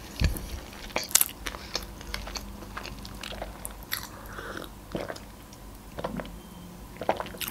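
Close-miked chewing of sushi rolls: soft wet mouth clicks and crunches, scattered and irregular. About halfway through come sips and swallows from a glass of sparkling water.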